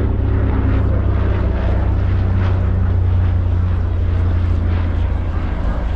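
Twin Pratt & Whitney R-1830 radial piston engines of a Consolidated PBY-5A Catalina flying in display, a steady, loud propeller drone.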